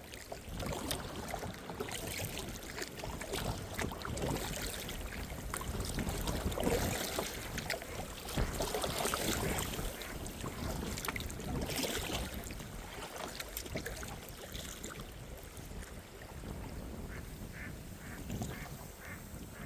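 Waterfowl calling, ending in a run of short calls about three a second, over kayak paddling and water splashing.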